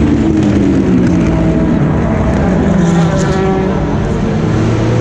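Several race car engines overlapping as the cars pass through a chicane. Their pitch falls as they brake and shift down, then rises as they accelerate out.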